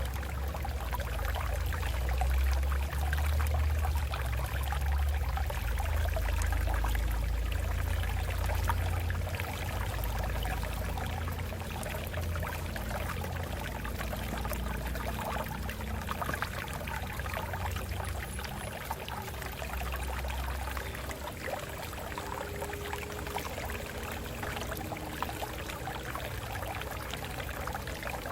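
Water flowing and splashing over rocks, a steady rushing with a strong low rumble underneath, slightly louder in the first half.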